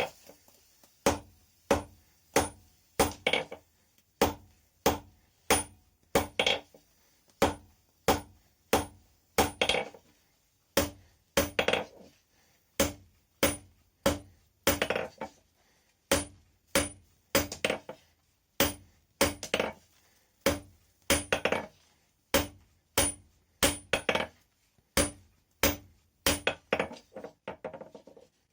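Blacksmith's hammer striking steel rebar on an anvil in a steady rhythm, about two blows a second, each blow ringing briefly; the hand forging of a fireplace poker.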